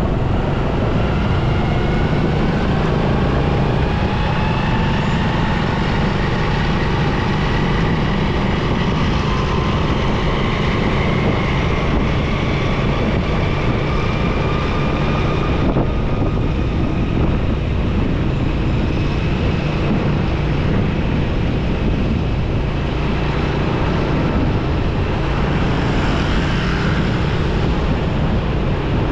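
Motorcycle engine running steadily under way, with road and traffic noise. Faint tones climb slowly in pitch over the first half.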